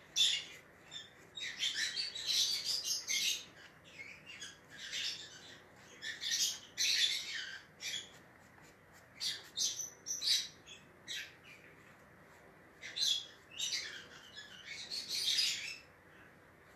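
Small caged pet bird chirping in quick bursts of high chirps, with short gaps between bursts; it falls quiet near the end.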